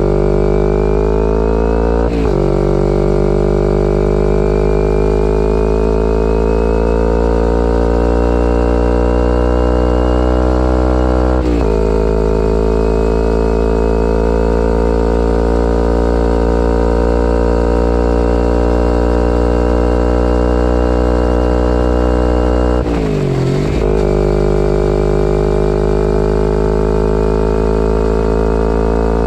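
2011 Kawasaki Ninja 250R's parallel-twin engine running through a full Graves race exhaust under way. The engine note climbs slowly and drops suddenly three times, at gear changes about two, eleven and twenty-three seconds in.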